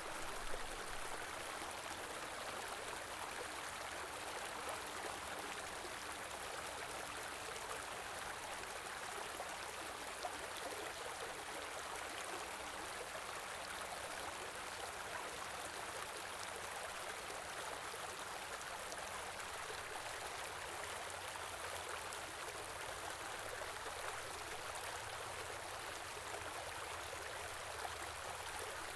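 Shallow stream water flowing steadily with an even rushing sound.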